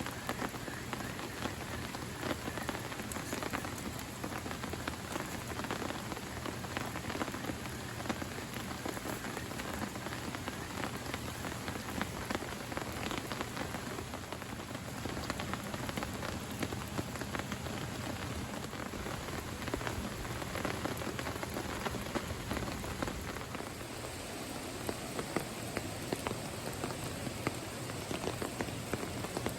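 Steady rain falling, with many separate drops striking a surface close by.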